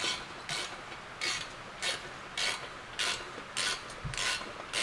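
Hand ratchet wrench being worked in steady strokes, tightening exhaust bolts: a short burst of ratchet clicking about every half second or so, eight or nine times.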